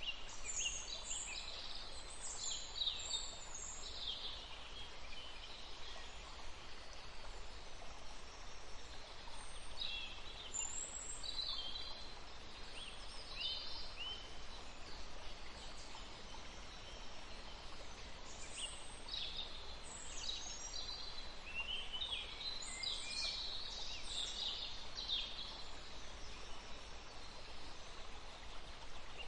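Forest ambience: small birds chirping and singing in scattered bouts of short, high notes over a steady background hiss.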